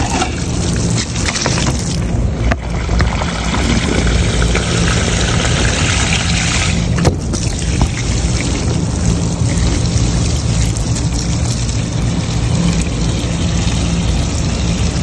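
Water being flushed through a clogged condensate drain line, running steadily over a low machine hum.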